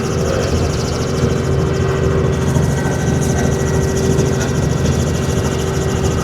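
Helicopter turbine and rotor running steadily in flight, heard from inside the cabin: a dense, even drone with a constant whine and fast, even rotor pulsing.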